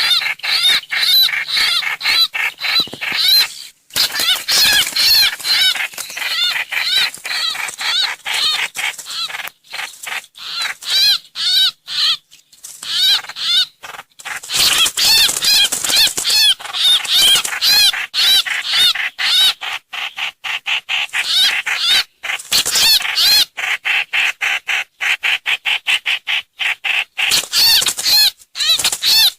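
Bird lure recording of a trao trảo bird calling: loud, fast runs of sweeping, chattering notes, with brief pauses between the runs.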